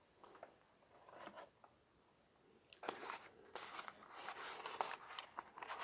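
Faint handling noise of a die-cast toy car being handled: crackling and small clicks, busier and louder from about three seconds in.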